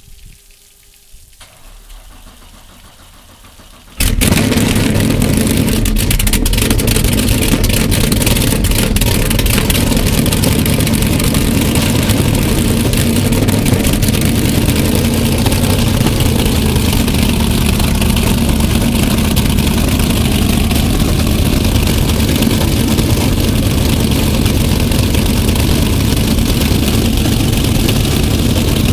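Apache 41 powerboat's engine starting about four seconds in, then running loud and steady at idle.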